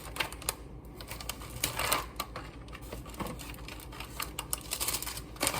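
Irregular light clicks and clatters of small hard kitchen items being handled on a counter.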